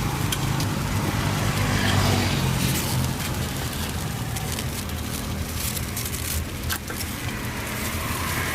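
Street traffic: a motor vehicle's engine running close by, swelling about two seconds in and then easing to a steady hum, with scattered light clicks.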